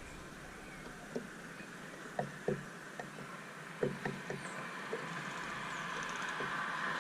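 Small birds at a seed feeder: irregular soft taps and knocks, with a few faint high chirps over a steady hiss that grows a little louder near the end.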